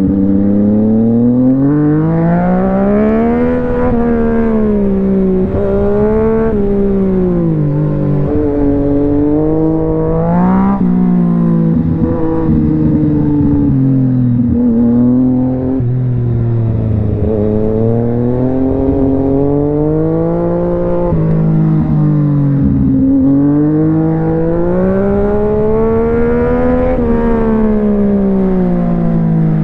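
Yamaha MT-09's inline-three engine being ridden, its note rising and falling again and again as the throttle is opened and eased. It has a few abrupt drops in pitch.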